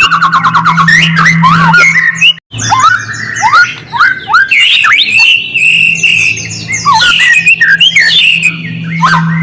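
White-rumped shama (murai batu) singing: a fast rattling chatter, then a string of quick rising whistled notes and a held high note, with a steady low hum underneath. The sound cuts out completely for an instant about two and a half seconds in.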